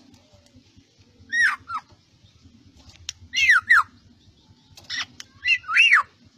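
Black-naped oriole (kepodang) calling in three short bursts, each of two or three harsh notes that slide downward.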